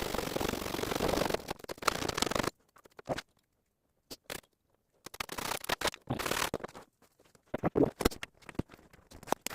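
Wood being scraped and handled: a steady rasp for about the first two and a half seconds, then scattered short scrapes and knocks with quiet gaps between them.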